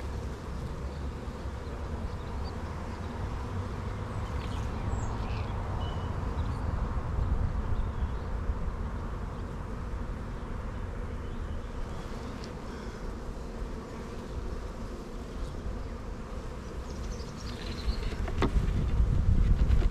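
Honeybees buzzing steadily around an open hive during a frame inspection, a dense continuous hum. A low rumble swells near the end.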